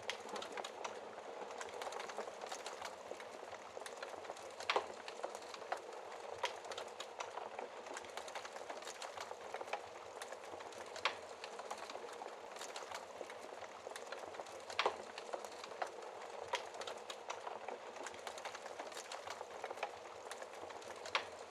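Wood fire burning in a fireplace: a steady crackle with frequent sharp pops, a few louder ones about 5, 11, 15 and 21 seconds in.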